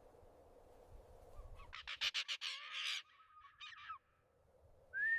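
Vultures calling: a quick run of harsh, rasping squawks about two seconds in, a shorter rasp a second later, and a clear whistled note near the end.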